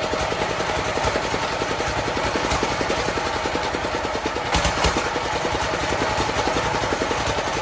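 Old diesel engine running steadily with a fast, even clatter, now starting and running after repair. A couple of sharper knocks stand out about halfway through.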